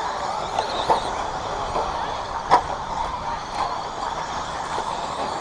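Radio-controlled stadium trucks running around the track, with faint motor whine over a steady background of tyre and track noise and a sharp knock about two and a half seconds in.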